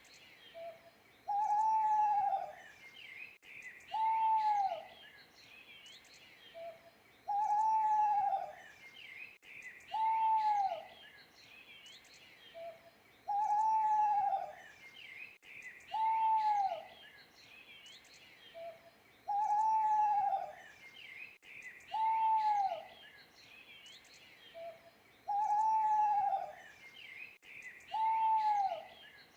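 An owl hooting: single arched hoots that rise slightly and then fall, each under a second long, about every two to three seconds, in a pattern that repeats every six seconds, some with a short soft note between. Faint small-bird chirps and insect twitters sound higher behind them.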